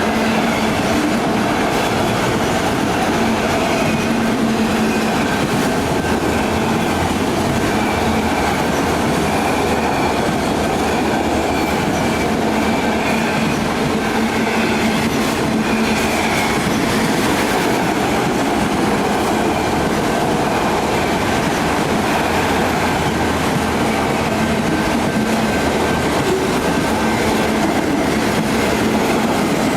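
Union Pacific freight train rolling steadily past a grade crossing, steel wheels clacking over the rail joints.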